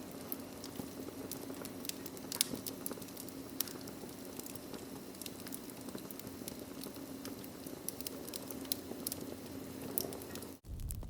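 Wood fire crackling in a fireplace: scattered sharp pops and snaps over a steady hiss. Near the end it cuts off suddenly and gives way to a low steady rumble.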